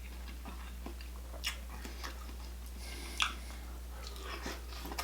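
Close-miked chewing and wet mouth sounds of a person eating a garlic butter seafood boil, with sharper clicks about one and a half and three seconds in, over a steady low electrical hum.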